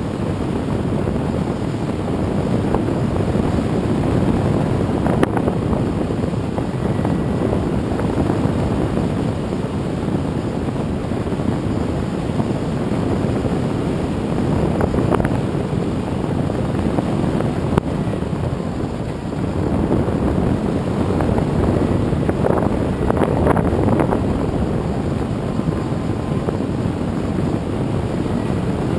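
Radio-controlled airplane in flight, heard from its onboard camera: the propeller running with wind rushing over the microphone, a steady loud noise that swells and eases a few times.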